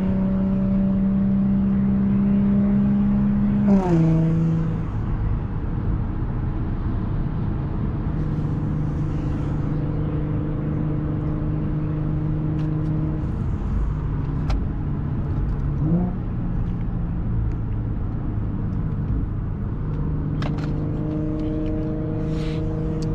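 Audi S4's supercharged 3.0-litre V6 with an AWE Touring exhaust running steadily under light load while driving. Its pitch drops suddenly at a gear change about four seconds in and rises briefly around sixteen seconds in.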